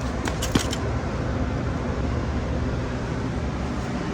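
Steady low rumble of background noise, with a few light clicks about half a second in.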